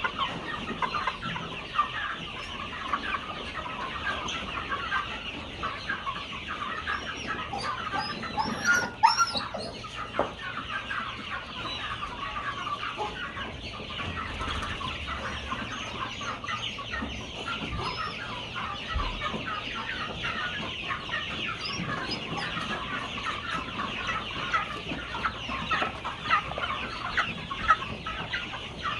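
A flock of chickens clucking continuously, many birds calling over each other, with one louder call about nine seconds in.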